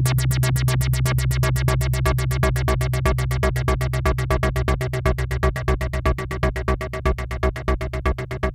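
Malekko Manther analog monosynth playing a fast sequenced line, about eight notes a second, over a strong low bass tone. The notes grow shorter and more clipped toward the end as its parameters are tweaked.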